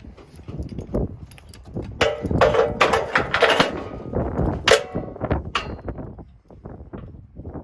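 A heavy log being loaded up a steel ramp onto a portable sawmill: a run of sharp knocks and ringing metallic clangs in the middle, with lighter knocks before and after.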